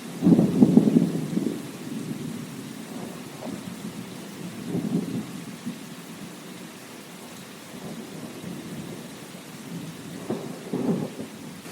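Steady rain with low rumbles of thunder: a loud roll right at the start, a smaller one about five seconds in, and another near the end.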